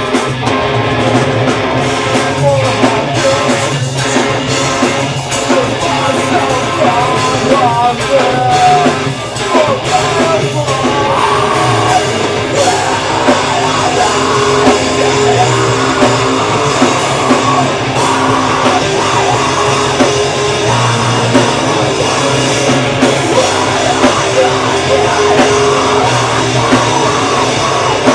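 Live metalcore band playing loud: distorted electric guitars, bass and drum kit, with screamed vocals over them.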